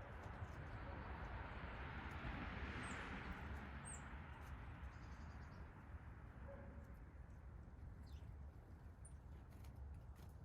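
Faint backyard ambience: a rushing noise that swells about three seconds in and then eases off, with a few short, high bird chirps scattered through it.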